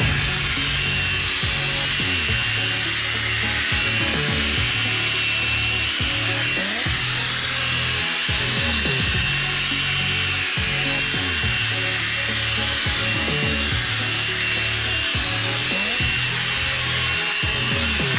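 Power drill spinning a polishing pad against a plastic headlight lens, a steady whirring rub that cuts off suddenly at the end.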